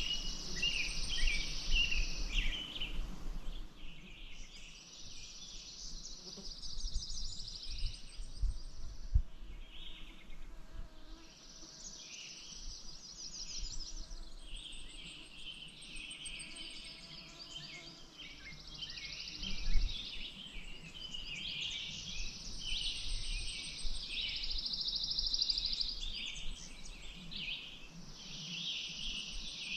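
Several songbirds singing together: overlapping chirps and rapid trilled phrases. Under them runs a low rumble with scattered soft thumps, and one sharper thump about twenty seconds in.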